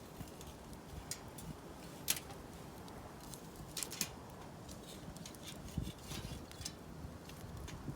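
Wood campfire crackling, with scattered sharp pops over a steady low rumble, a couple of louder pops about two and four seconds in.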